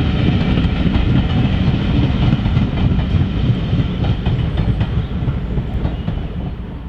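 Train carriages rolling past at speed, with a steady rumble and the wheels clicking over the rail joints. The sound falls away near the end as the train draws off.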